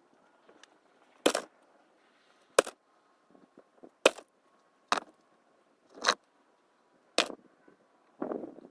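Six sharp, hard strikes at a fairly even pace, roughly one every second or so, each a short crack.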